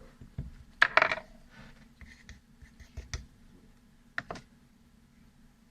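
Small sharp clicks and scrapes of hard objects being handled on a work surface, in three short clusters: the loudest about a second in, then around three seconds and again just after four seconds.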